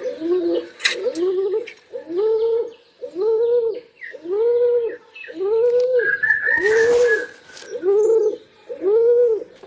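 Pigeon cooing: a steady series of short arched coos, about one a second, nine in all. A brief higher-pitched call from another bird comes in about six seconds in.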